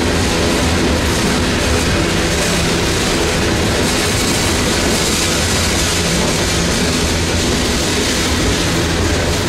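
Freight train of loaded coke hopper cars rolling past, the steel wheels on the rails making a steady, even rolling noise.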